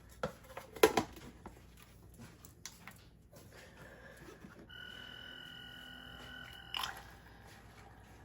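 Plastic parts of a cordless pet water fountain knocked and clicked together as it is handled. A faint steady high whine sounds for about two seconds, ending in a knock.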